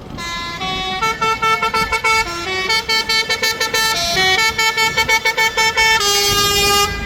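A musical vehicle horn playing a quick tune: a run of stepped notes with fast repeated notes in the middle, ending on a long held note that cuts off suddenly.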